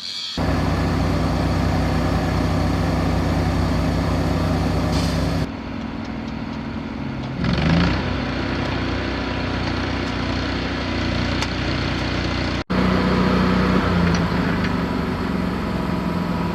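Heavy farm equipment's diesel engine idling steadily, with a short rev about eight seconds in; the sound breaks off and changes abruptly twice, about five and a half and twelve and a half seconds in.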